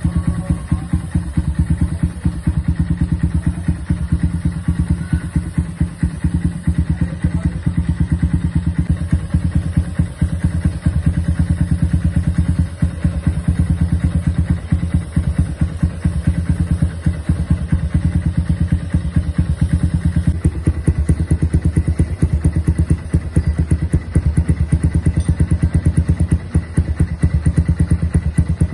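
Kawasaki W175's single-cylinder engine idling steadily through a custom aftermarket scrambler exhaust, giving an even, deep, bassy exhaust pulse.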